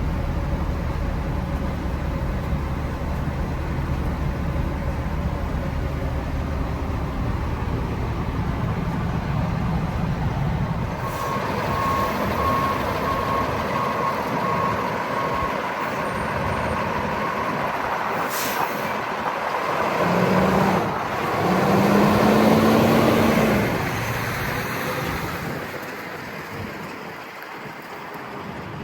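Freightliner M2 truck's Cummins L9 diesel running at idle, then a backup alarm beeping repeatedly for several seconds. Later there is a louder stretch of air hiss with a rising engine note, which then fades.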